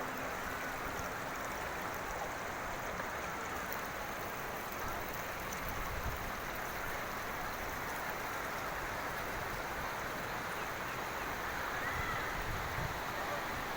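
Steady rushing water, even and unbroken.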